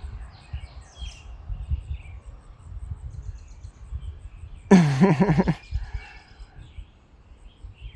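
Birds chirping faintly and sporadically over a steady low rumble. About five seconds in, a brief, loud voice-like sound with a wavering pitch stands out.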